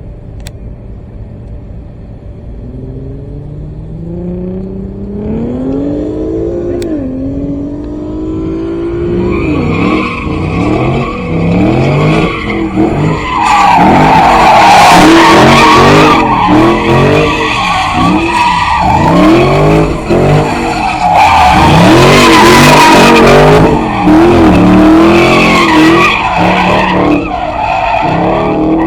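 A car spinning its tyres in a burnout, with the engine revving up and down rapidly and the tyres squealing. The revs climb over the first few seconds, then rise and fall again and again. The tyre noise is loudest in two stretches, one near the middle and one later on.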